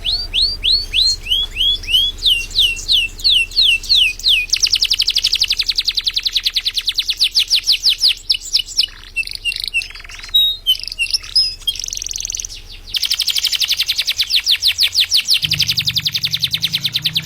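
Domestic canary singing a contest song: first a run of repeated down-slurred whistles, about three a second, then rapid rolling trills broken by varied short notes, and a long fast trill near the end.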